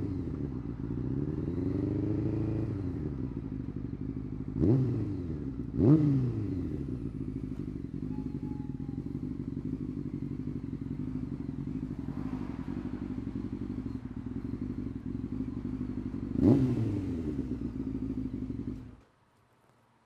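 Honda CBR600 F4's inline-four engine running steadily at low revs, with a slow rise and fall in revs about two seconds in and quick throttle blips around five, six and sixteen seconds in. The engine sound cuts off suddenly about nineteen seconds in.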